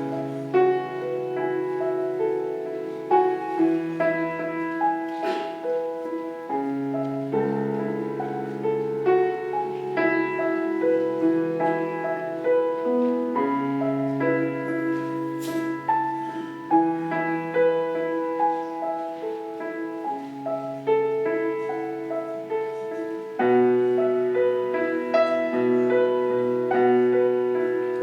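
Solo piano playing a slow, gentle offertory piece, with sustained chords and bass notes changing every second or two.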